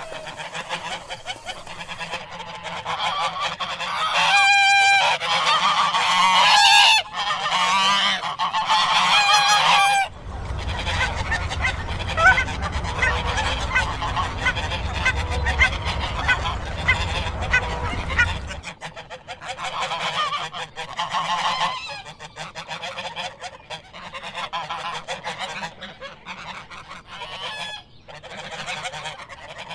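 Ducks quacking, a run of repeated calls from several birds. From about ten seconds in, a low steady rumble sits under rapid, busier calling for about eight seconds, then the calls go on over a quieter background.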